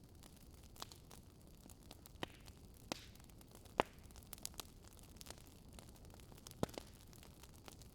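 Wood fire crackling in a fireplace: irregular sharp pops and snaps over a low, steady hiss, with the loudest pop about four seconds in.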